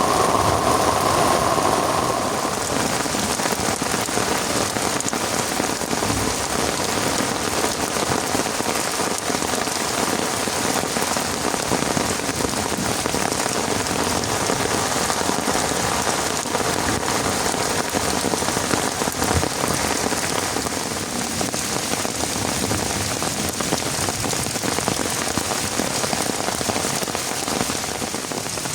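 Heavy rain falling steadily, a dense even patter. An extra hiss mixed in at the start fades out about two seconds in.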